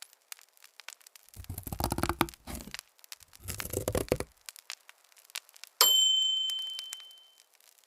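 Two short crackling, crunching bursts, then a single bright ding that rings out and fades over about two seconds.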